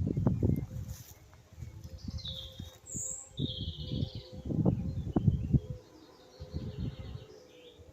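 Birds chirping a few short calls about two to four seconds in, over gusts of wind buffeting the microphone and a faint steady drone.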